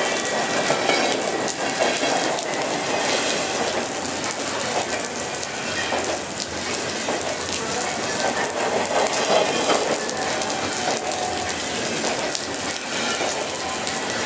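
Double-stack intermodal freight train's well cars rolling past on steel rails, a steady rumble with scattered knocks from the wheels, mixed with steady rain falling.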